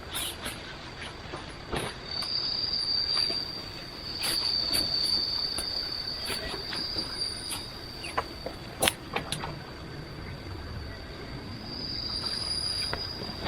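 Insects droning in one steady high-pitched tone that swells louder and softer, with scattered sharp clicks and a couple of louder snaps.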